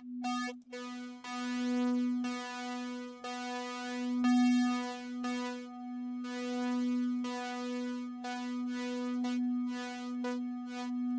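A software wavetable synthesizer (Arturia Pigments) holds one steady note while a modulator sweeps the wavetable position, so the timbre keeps swelling and changing every second or so. The note comes as short chopped pulses at the start and changes more quickly near the end.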